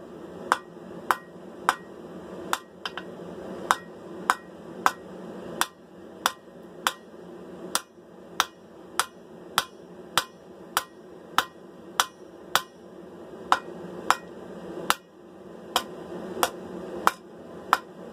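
Hammer blows on a steel sword blade over an anvil, about two sharp ringing strikes a second with a few short pauses, as the blade's tip is drawn out and thinned.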